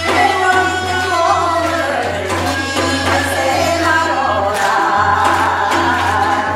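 Korean Gyeonggi folk singers performing hwimori japga, the fast patter style of folk song, several voices singing together over hand-drum strokes from a janggu.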